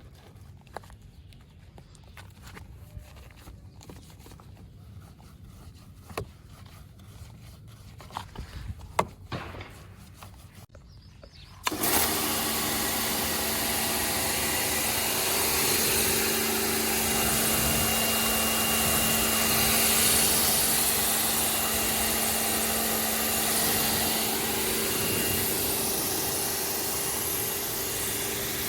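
A few faint clicks and knocks, then about twelve seconds in a pressure washer starts abruptly and runs steadily: a motor hum under the loud hiss of the water spray.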